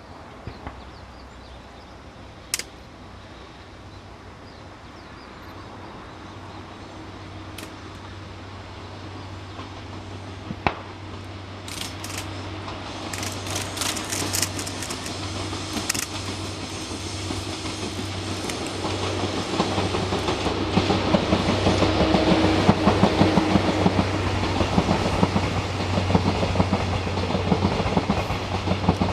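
Electric train approaching, its running noise and wheel clatter growing steadily louder, with a steady low hum building from about six seconds in. A few sharp clicks come in the first ten seconds or so.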